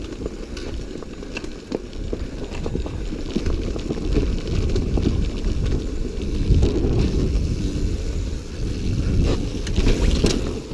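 A dirt bike riding along, its engine rumble mixed with heavy wind buffeting on the microphone and scattered clicks and knocks.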